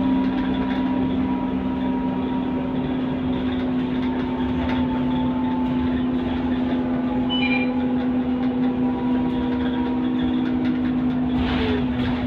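Scania K230UB single-deck bus running at steady speed: a strong, steady hum holding one pitch over road noise. A short burst of noise comes near the end.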